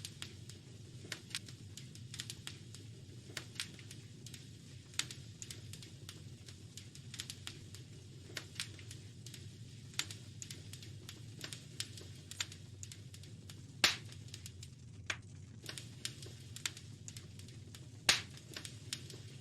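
Fireplace fire crackling: irregular sharp snaps and pops over a steady low rumble, with two much louder pops, one about two-thirds of the way through and one near the end.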